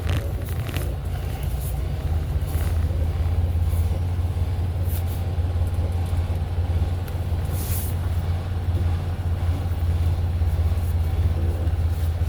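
Semi truck's diesel engine running steadily at low speed, a constant low rumble, with a short hiss about eight seconds in.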